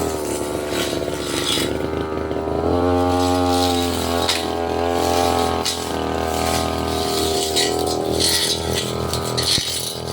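Petrol brush cutter running at high speed while cutting undergrowth, its engine note shifting in pitch a few times as the blade meets and clears the growth. Sharp ticks of the blade striking stems and debris.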